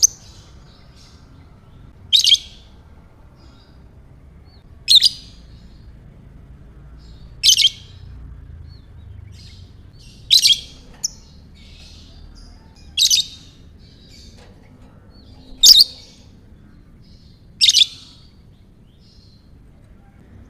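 Lovebird calling with loud, sharp chirps about every two and a half seconds, and softer twittering in between.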